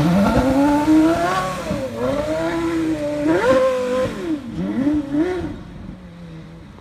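Porsche Carrera GT's V10 engine revving hard, its pitch climbing and dropping several times as the car is driven, then fading away near the end.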